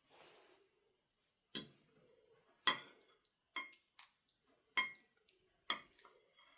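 Dishes and glassware clinking: five sharp clinks roughly a second apart, each with a short ring.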